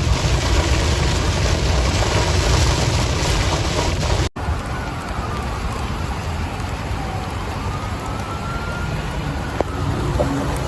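Heavy rain and gusting wind in a severe thunderstorm squall line: a dense steady hiss over a low rumble. It cuts off abruptly about four seconds in and resumes a little softer, with a faint rising and falling whistle beneath it.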